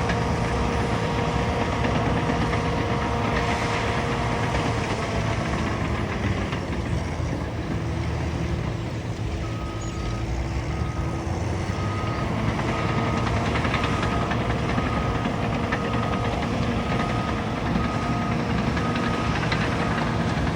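Diesel engine of a Caterpillar bulldozer running under load, its pitch dropping a few seconds in as the throttle eases. About halfway through a reversing alarm starts beeping, short evenly spaced beeps a little faster than one a second.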